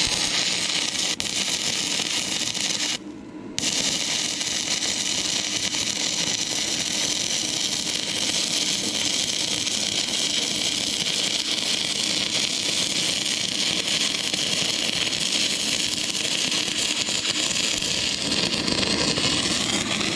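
Stick-welding arc from an inverter arc welder burning a 6011 rod on rusty, painted metal: a steady hiss that cuts out for about half a second some three seconds in as the arc breaks, then restrikes and runs on.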